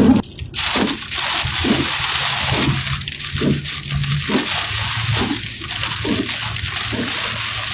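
Heavy wind-driven rain hitting a vehicle, a steady dense hiss over a low steady hum, with a soft low pulse repeating about every three quarters of a second.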